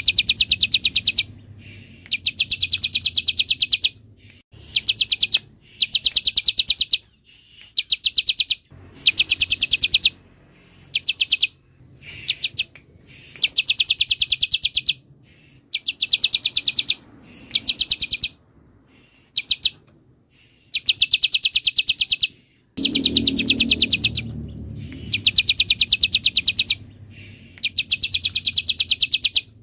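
Bar-winged prinia (ciblek) singing a rapid, evenly repeated high trill in more than a dozen bursts, each from a fraction of a second to about two seconds long, with short gaps between them. A faint low rumble runs underneath.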